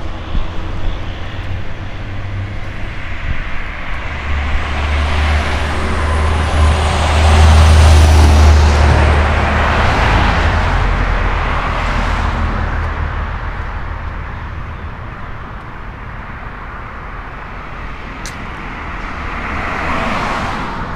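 Road traffic passing close by: a heavy vehicle goes past with a deep rumble that swells to its loudest about eight seconds in and fades, and another vehicle passes near the end.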